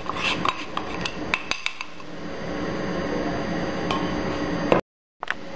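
Spoon clinking and knocking against a glass bowl while rice flour is stirred into hot water, a quick run of sharp clicks in the first two seconds, then a steadier hum. The sound cuts out briefly near the end.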